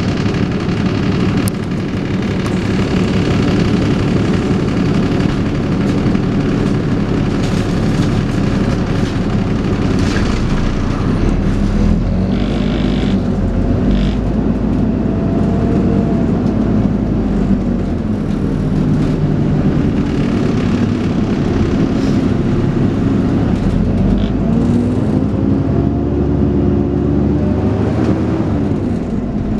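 Dennis Trident 2 double-decker bus's diesel engine running under way. In the second half its pitch rises and falls several times as the bus accelerates and changes gear.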